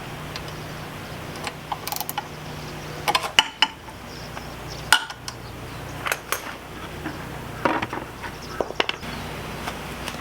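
Metal tool clicking and scraping against the drain screw of an outboard lower unit gearcase, a series of sharp clinks as the screw is loosened and backed out with its seal.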